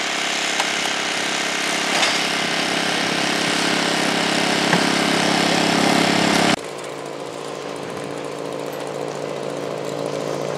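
Small engine-driven machinery running steadily, with a hum of several steady tones. It drops suddenly in level about two-thirds of the way through and carries on quieter.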